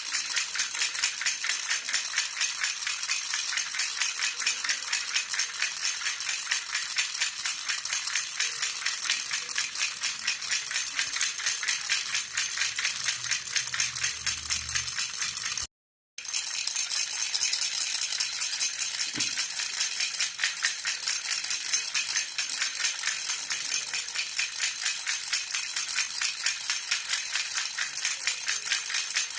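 A jhunjhuna (baby rattle) shaken steadily in a continuous, rapid jingle, with a brief sudden dropout about sixteen seconds in.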